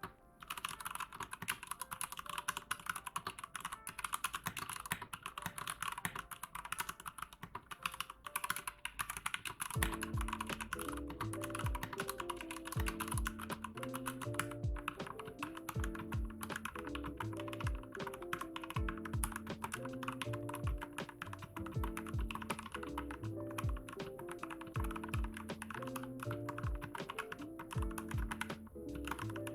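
Continuous fast typing on a mechanical keyboard with Gateron Brown tactile switches, a dense patter of key strokes. Background music with a steady beat comes in about a third of the way through.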